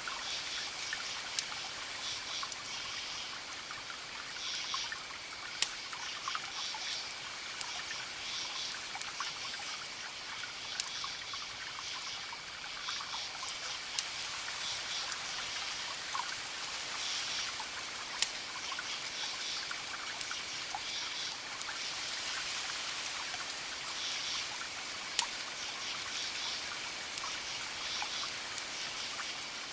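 Campfire crackling, with sharp pops every second or two, over a steady high-pitched cricket trill and repeated cricket chirps. A steady hiss runs underneath.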